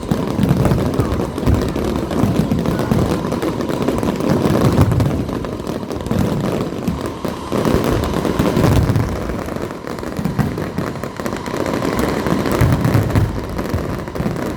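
Aerial fireworks shells bursting in a dense, unbroken barrage, with heavier booms every few seconds.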